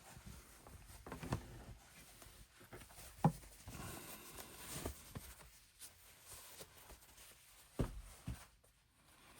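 Soft handling of cloth face towels as they are unfolded: faint rustling with a few light knocks, the sharpest about three seconds in and two more near the end.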